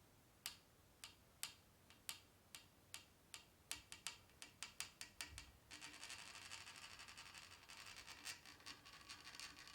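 Packing materials being handled: a run of small, sharp clicks that come faster and faster, then from a little past halfway a few seconds of crackling, crinkling rustle.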